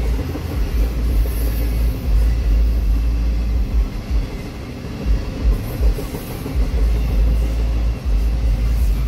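Norfolk Southern freight train's open-top hopper cars rolling past, a steady low rumble of wheels on rail, heard from inside a car.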